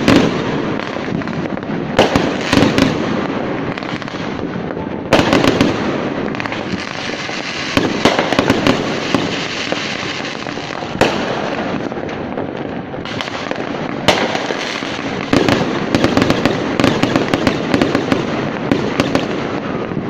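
Aerial fireworks going off in a continuous barrage: sharp bangs every second or few over a dense, unbroken crackle.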